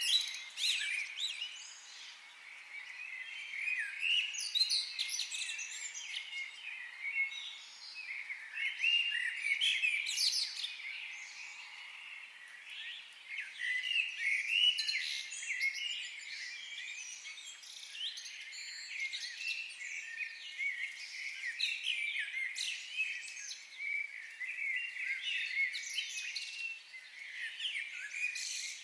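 Several songbirds singing and chirping together in a forest, a dense overlapping chorus of high chirps and trills that swells and eases every few seconds.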